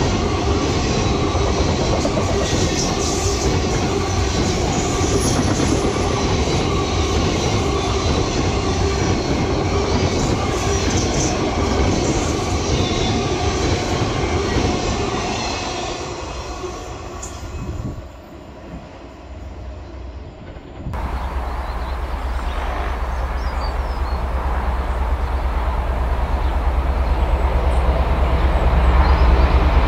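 A train running past on the rails, wheels clacking over the rail joints with some squeal, fading away a little over halfway through. After an abrupt cut, a heavy low rumble grows steadily louder.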